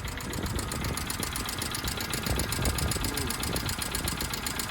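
Hyundai Getz's 1.6-litre four-cylinder petrol engine idling steadily, with a fast, even pulse.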